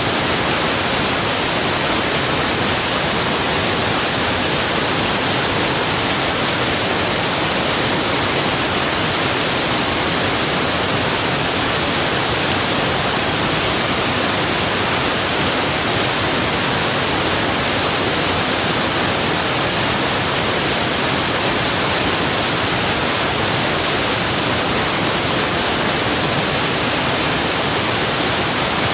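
Flowing water from a river or waterfall: a loud, steady, unbroken hiss with no separate splashes or other events.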